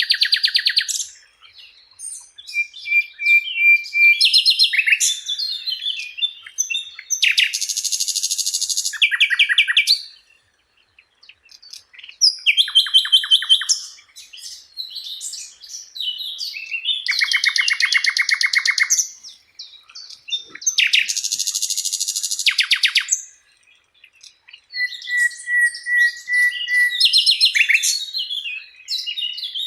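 Sikatan londo, a flycatcher, singing a long, varied song in phrases a few seconds long with short pauses between them. The phrases mix fast rattling trills, rapid chattering notes and a few held whistles.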